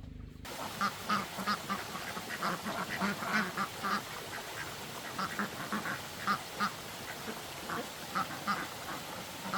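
Ducks quacking: a run of short calls in quick succession, starting abruptly about half a second in.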